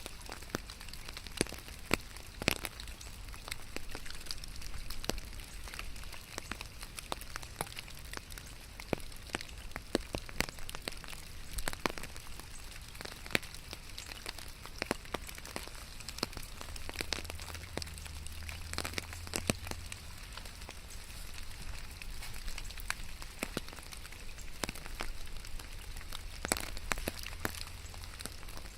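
Rain falling steadily, with many sharp, irregular drops striking close by. A faint low hum comes in for a few seconds about two-thirds of the way through.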